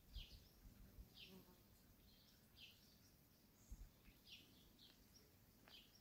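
Faint birdsong: short, falling chirps repeated irregularly, about one or two a second, over quiet outdoor background. A few low thumps at the start and again past the middle.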